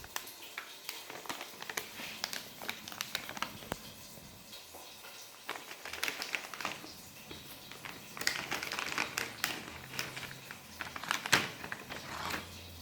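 Plastic dog-treat package crinkling and crackling as it is handled and opened, in irregular bursts with small clicks.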